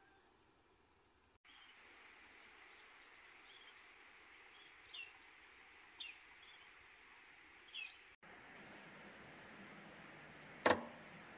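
Faint outdoor ambience: small birds chirping in short falling calls over a steady hiss. After a cut comes a plainer hiss with a single sharp crack near the end, the loudest sound.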